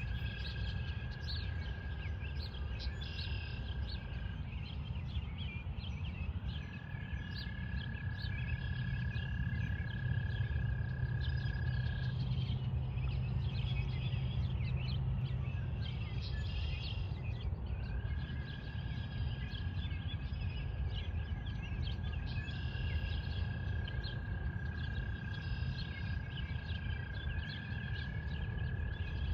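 Pond ambience: a frog trilling on one steady pitch for several seconds at a time, breaking off twice, while birds chirp over it and a low rumble runs underneath.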